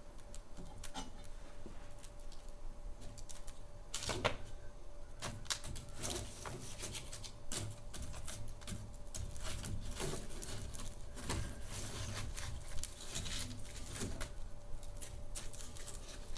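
Wood fire crackling in a fireplace: irregular sharp pops and snaps from the burning logs, a few louder ones about four seconds in and around ten seconds in, over a low steady rumble of the flames.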